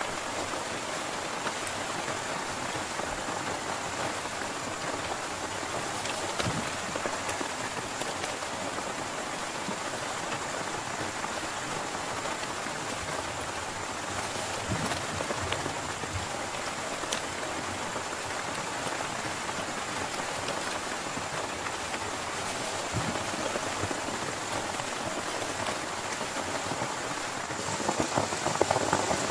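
Heavy rain falling steadily on a tent, with scattered single drops ticking sharply. The downpour grows louder near the end.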